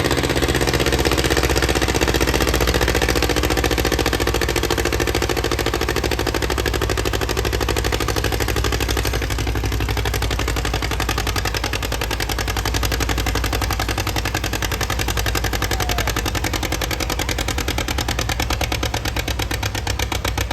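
Tractor engine running steadily and loudly, with a rapid, even train of firing pulses.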